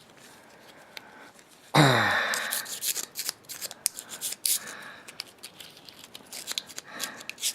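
Carbon deposits being scraped by hand off an aluminum engine piston: many short, irregular scrapes and clicks. A brief, louder sound falls in pitch about two seconds in.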